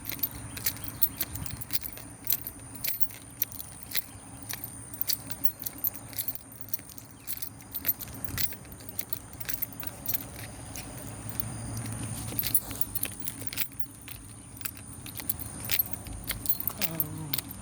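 Irregular crunching clicks and rustles of someone walking with a handheld phone, over a steady high-pitched whine. A low rumble swells and fades about twelve seconds in.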